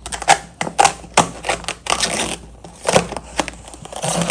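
A cardboard shipping box being opened with the tip of a blade and handled: a quick run of sharp clicks and knocks, with stretches of scraping and rustling cardboard.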